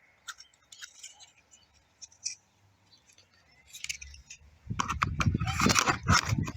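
Light plastic clicks and scratches of parabolic reflectors being fitted onto a drone controller's antennas. About two-thirds of the way through comes loud rumbling buffeting with crackle on the microphone.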